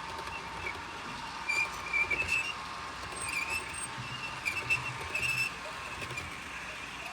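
Model train running on a layout: a steady hum with intermittent high squeaks and light clicks.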